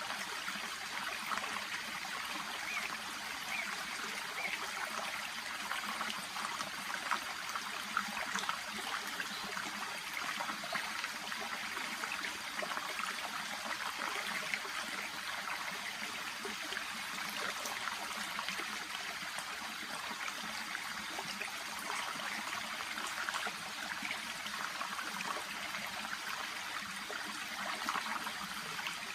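Shallow brook babbling steadily, water trickling and lapping with many small splashing ticks.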